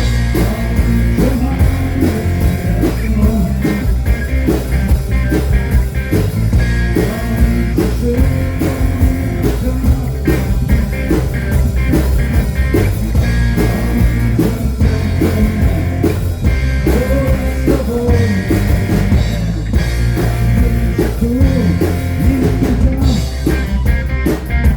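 Rock band playing live: guitar and drum kit over a heavy bass line, with bending melodic lines that are sung or played on lead guitar.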